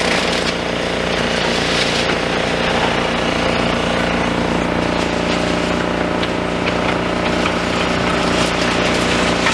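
Demolition excavator's diesel engine and hydraulics running steadily while its crusher jaws crunch down a pile of rebar, with a few faint knocks over the engine.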